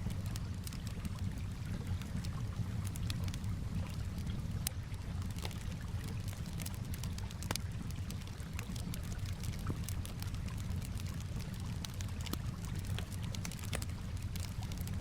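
Campfire crackling, with frequent irregular sharp pops and snaps, over a steady low wash of calm water.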